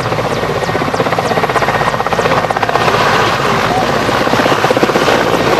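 Helicopter running close by, its rotor blades beating in a rapid, steady chop over the engine noise.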